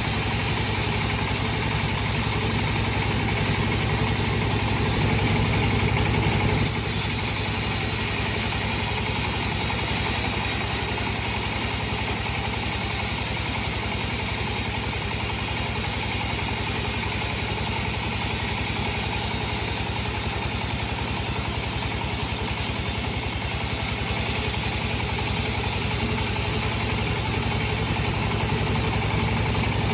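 Sawmill bandsaw machinery running with a steady low hum. A high hiss joins it from about seven seconds in and stops sharply at about two-thirds of the way through.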